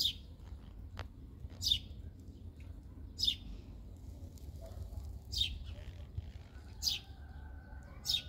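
A bird calling: a short, high chirp repeated six times, about one every one and a half seconds, over a low steady rumble.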